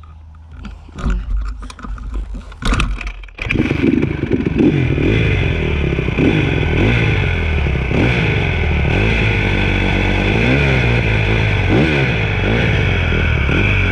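Dirt bike engine heard from a handlebar-mounted camera: a quiet low idle with a few knocks and clatters, then about three and a half seconds in it opens up loudly and the bike rides off. Its pitch rises and falls again and again with throttle and gear changes.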